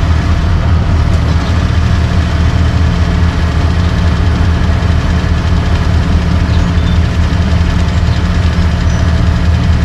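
Vehicle engine idling steadily, a loud, even low hum that holds without change.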